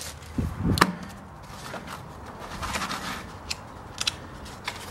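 Handling noise: a sharp knock just under a second in, then light rustling and small bumps, as of the saw's instruction papers being picked up.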